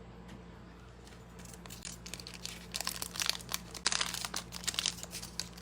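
Crinkling of a foil trading-card pack wrapper being handled, faint at first and growing busier and louder about three seconds in, over a faint steady hum.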